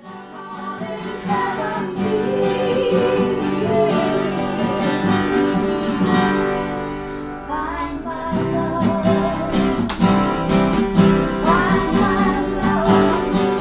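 Strummed acoustic guitar playing chords under a singing voice.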